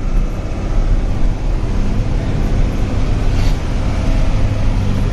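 Truck engine running steadily on the move, a continuous low drone with road noise.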